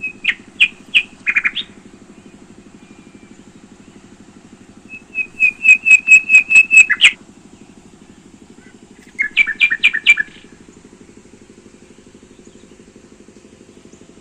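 Lesser grey shrikes calling in three bursts of rapid, repeated sharp notes: a short series at the start, a longer run of about ten notes around the middle, and a shorter one about two seconds later. A steady low hum runs underneath.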